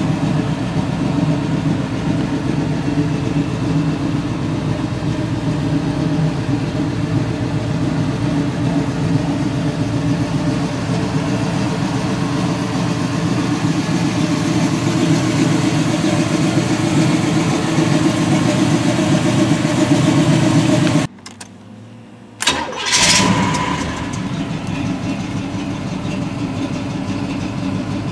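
1980 Chevrolet El Camino's 5.0-litre V8, fitted with Hooker headers, running steadily at idle. About three-quarters of the way through, the sound breaks off abruptly for about a second and a half; then the engine starts again with a brief rise and settles back to a steady idle.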